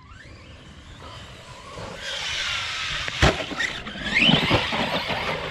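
Arrma brushless RC truck driving hard: its motor whine rises and tyre noise grows louder, with a sharp impact about three seconds in, then another rising whine and a few lighter knocks.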